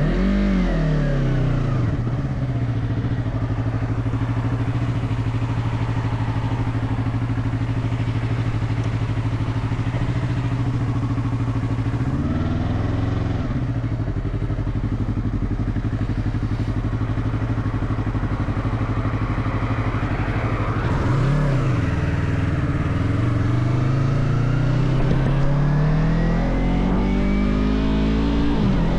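Motorcycle engine on the road: its pitch drops at first, then holds steady while cruising. The pitch dips and recovers twice, about 12 and 21 seconds in, then climbs steadily as it accelerates near the end.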